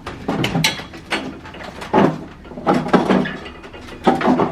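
Hotel room door lock and handle clicking and rattling as the door is worked open, with a few heavier knocks.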